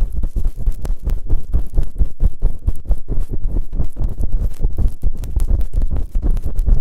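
ASMR ear-cleaning sounds on the microphone: fast, continuous rubbing and scratching strokes, several a second, with a heavy low rumble.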